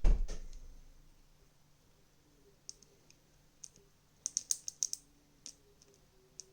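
A thump of something set down on a table, then scattered small sharp plastic clicks, thickest about four to five seconds in, as the parts of a TV remote are handled and snapped back together.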